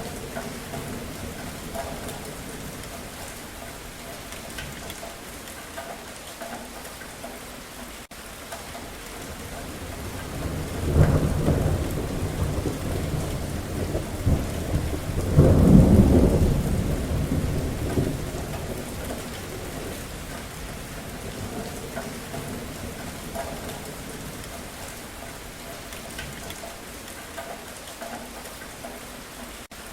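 Steady rain falling, with one long rumble of thunder that builds about a third of the way in, peaks around the middle and dies away.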